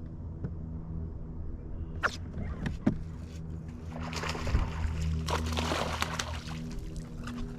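A boat's motor running steadily, with a few sharp knocks and a stretch of rushing, splashing water noise in the middle.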